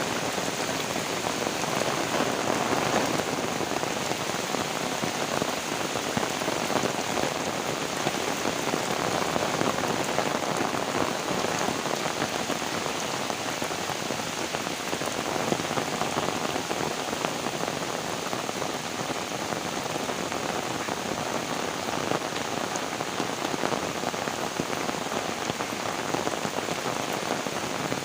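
Heavy rain falling steadily on surfaces: a dense, even hiss of drops with no letup.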